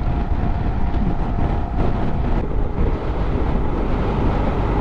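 Motorcycle on the move: steady engine rumble mixed with wind noise on the rider's helmet microphone.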